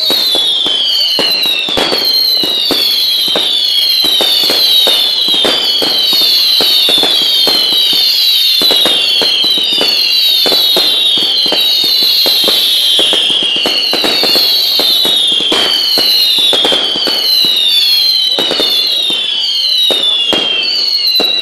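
Fireworks firing in quick succession: a continuous string of overlapping whistles, each falling in pitch over about a second, mixed with a rapid run of bangs.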